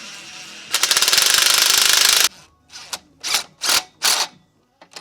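Ratcheting tool working on exhaust fasteners: a rapid, even rattle for about a second and a half, then four short ratcheting strokes.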